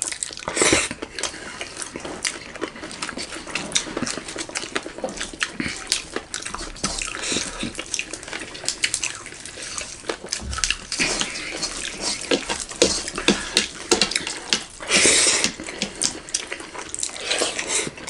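Close-miked mukbang eating sounds: two people chewing and smacking their lips over handfuls of soft maize rice, a dense run of quick wet clicks and squelches. There is one louder, longer burst about fifteen seconds in.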